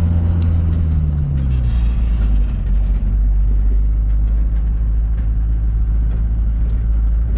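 Vehicle engine running steadily, its low drone dropping in pitch about a second and a half in and then holding at the lower pitch.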